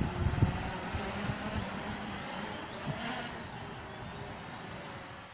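Strong, gusty wind buffeting the microphone with a low rumble, loudest in the first half-second and easing off after.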